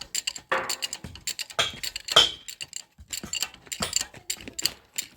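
A rapid, irregular series of light clicks and knocks, several a second, with one brief ringing knock about two seconds in.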